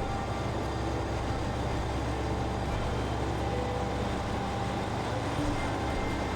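Steady low rumble of a train standing at a station platform with its machinery running, over a general station hum.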